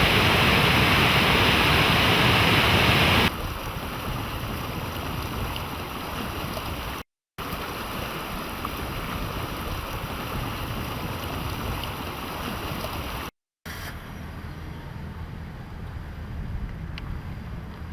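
Rushing water, a steady rush loudest for the first three seconds, then a quieter flow, across several shots broken by two brief silent cuts.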